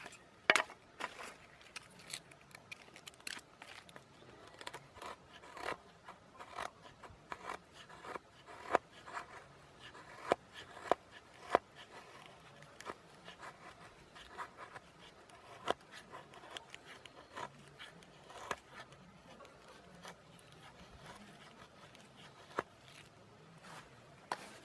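Knife shaving thin curls off a stick to make a feather stick: short, irregular scraping strokes, about one or two a second.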